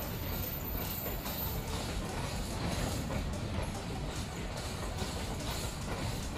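A train rolling through the station, its wheels clattering in a repeated rhythm over the rail joints.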